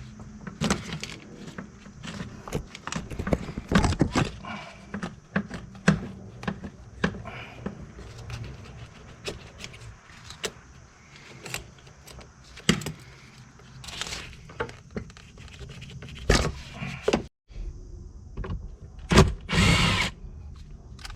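Hand tools clinking and knocking against metal parts in an irregular series of sharp taps and thunks, with a few louder knocks near the end, as heater hoses are worked loose from a car's heater core.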